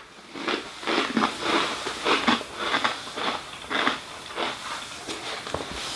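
Dry, crunchy potato straws being chewed with the mouth close to the microphone: a steady run of short crunches, about three a second.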